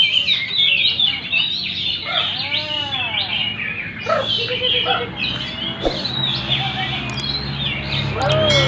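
Many caged songbirds singing at once in a songbird contest: a dense, continuous tangle of rapid chirps and trills, with some lower arching whistled notes mixed in.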